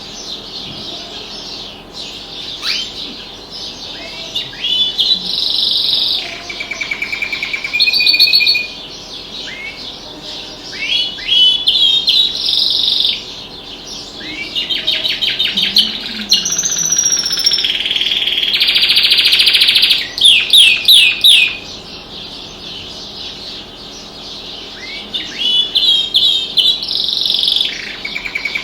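Domestic canary singing in bouts of rapid trills and fast repeated chirps, with pauses between phrases, over fainter chirping from other birds.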